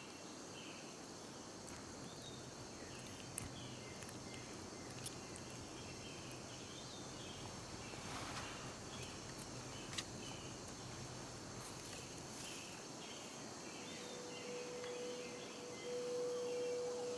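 Tropical forest ambience at dusk: a steady high trilling of insects with small chirping calls repeating throughout, and a few faint clicks. From about three-quarters of the way in, a steady low held note of background music comes in.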